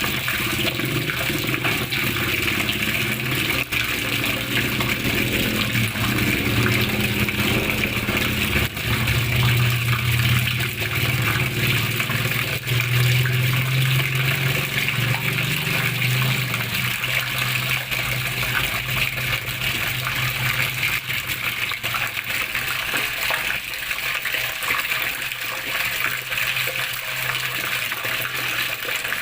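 Water flowing and splashing in a steady rush, with a low churning undertone that swells a little about ten seconds in.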